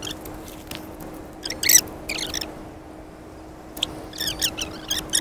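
Small birds chirping in short, quickly wavering phrases, in several clusters, over a faint steady low hum.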